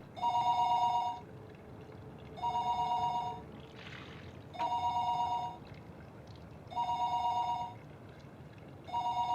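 Electronic telephone ringing: five rings of about a second each, evenly spaced about two seconds apart, each a steady two-note tone.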